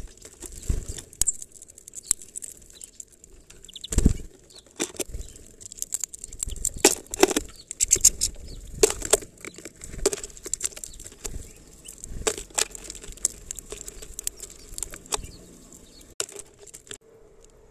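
Small birds fluttering at a plastic-bottle seed feeder: wingbeats and irregular taps and knocks as they land and peck at the seed against the plastic.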